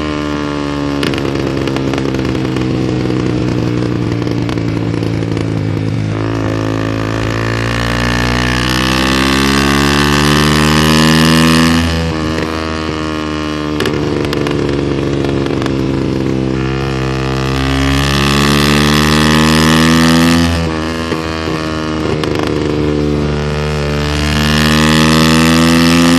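Honda CBR motorcycle engine through a short aftermarket exhaust, being revved: the pitch climbs slowly over several seconds, holds high, then falls away sharply when the throttle is let off. This happens twice, and a third climb comes near the end.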